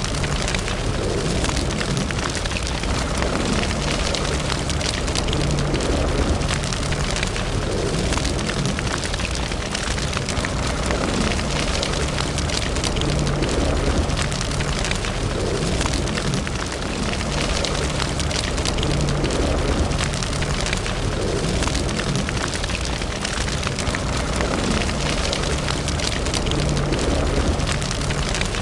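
Wood fire burning in a fireplace: dense, steady crackling with many small pops over a low rumble.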